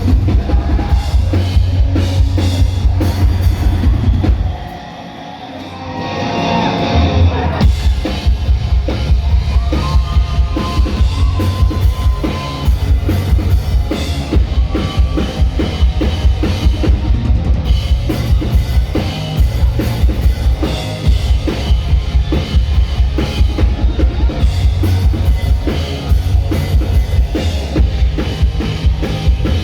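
Live rock band playing loud with a driving drum kit beat and heavy bass. About four and a half seconds in, the low end drops out for a moment and a rising build leads back into the full band.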